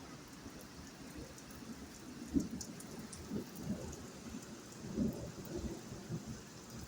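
Rain falling, with faint ticks of drops and irregular dull low thumps about once or twice a second.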